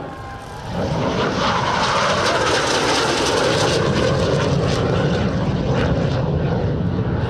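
Engine noise of a fixed-wing display aircraft flying by, dipping briefly near the start and then building to a steady, loud drone.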